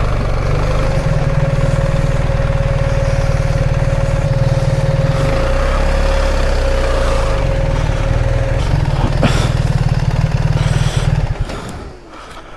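BMW R 1300 GS boxer-twin engine running at low revs, its note shifting briefly midway, with a steady whine over it; the engine stops about eleven seconds in.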